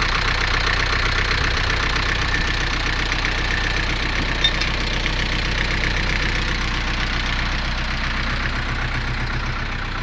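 Zetor Z6901 diesel engine running steadily while being run in. A single sharp click about four and a half seconds in, and the engine note eases slightly near the end.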